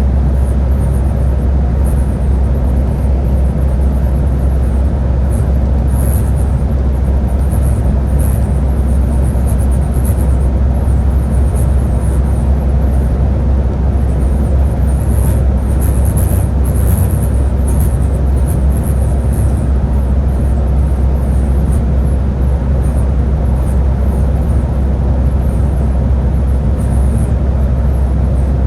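Scania Higer A30 bus running steadily on the road: a constant low engine and road rumble with a hiss on top, with no change in pace.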